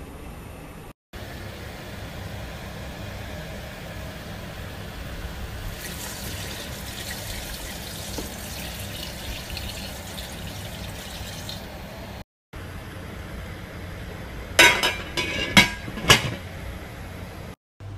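Water pouring into a pot of raw mutton pieces, a steady splashing hiss. After a cut come a few sharp metal clinks from the lid of a steaming cooking pot.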